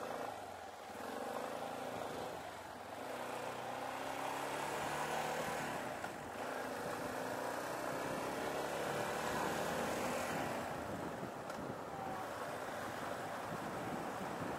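Yamaha Serow 250's air-cooled single-cylinder engine pulling the bike away and up through the gears. Its pitch rises as it accelerates, with short dips where it shifts, over wind and road noise.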